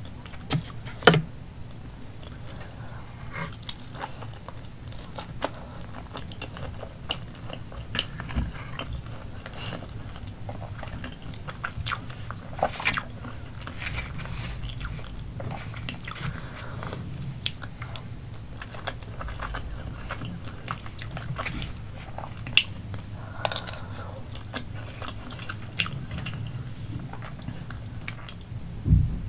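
A person chewing food close to the microphone, mainly a roasted potato and rice, with scattered sharp clicks of the mouth and fork; the loudest click comes about a second in.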